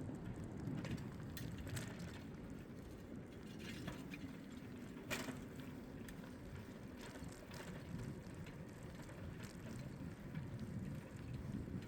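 Bicycle ride ambience: a steady low rumble of tyres and wind on the microphone, with scattered light clicks and ticks and one sharper click about five seconds in.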